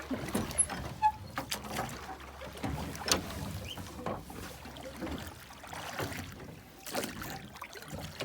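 Small rowboat on the water being rowed, with irregular knocks and splashes from the oars.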